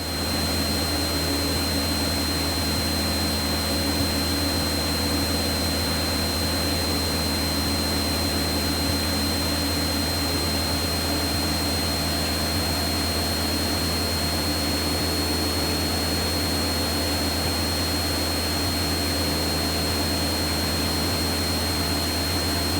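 Steady engine and propeller drone of a light aircraft heard inside the cockpit, with a constant high-pitched whine over it.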